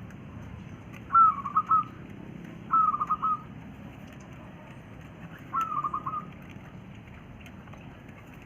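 Wild quail calling three times. Each call is a sharp high note followed by a quick run of three or four short clipped notes, lasting about half a second.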